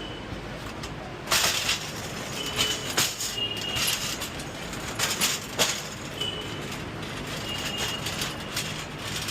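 Metal delivery carts being handled, rattling and clanking, with sharp knocks and a loud rattle about a second in. Short high electronic beeps sound several times.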